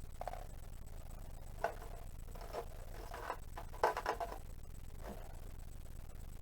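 Scattered clicks and knocks of hands and tools working on a portable fridge's plastic casing during disassembly, a quick cluster of knocks about four seconds in the loudest, over a steady low hum.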